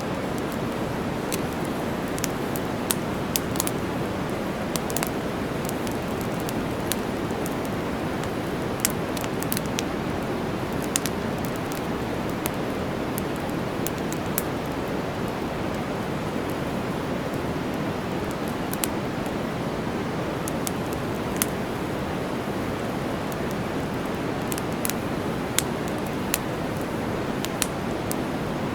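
Steady white-noise hiss with campfire crackling over it: irregular sharp pops and snaps of burning wood, sometimes several close together.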